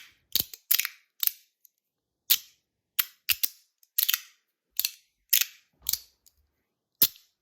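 S Nano track slider fidget being slid up and down its track, snapping to a stop with a sharp click at each end. The clicks come at an uneven pace, a little under two a second, some in quick pairs.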